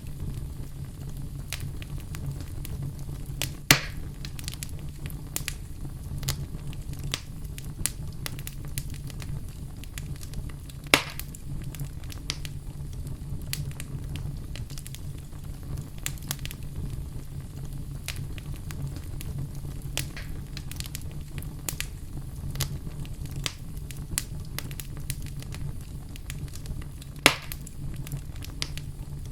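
Fire in a fireplace crackling steadily over a low rumble, with many small snaps and three sharp, louder pops spread through.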